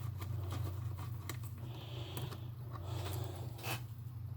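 Small parts of a toy RC car being handled during disassembly: a few light clicks and a brief scraping rub about two seconds in, over a steady low hum.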